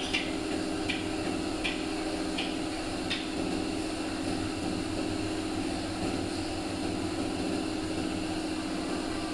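Steady machine hum from a running motor. Light, evenly spaced taps come about one every three-quarters of a second for the first three seconds, then the hum goes on alone.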